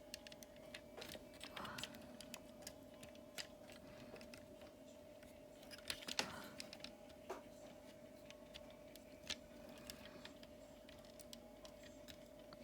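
Faint, irregular clicks and taps of plastic toy parts being folded and snapped into place on a transforming action figure, a few louder clicks about six seconds in, over a steady faint hum.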